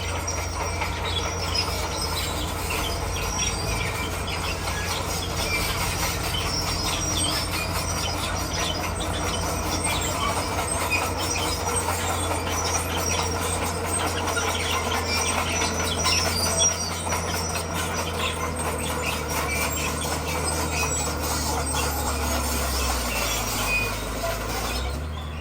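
Crawler bulldozer working: its diesel engine runs steadily while the steel tracks clank and squeal.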